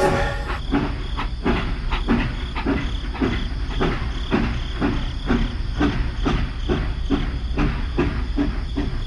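Steady mechanical rumble with a regular clatter of about three strokes a second, like a rail vehicle running along.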